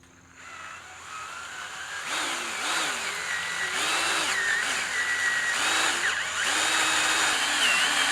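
Power drill driving a self-drilling Tek screw into a pre-drilled hole through two thicknesses of metal hoop tubing. The motor whine starts a moment in, builds, and repeatedly dips in pitch and recovers as the screw loads the drill.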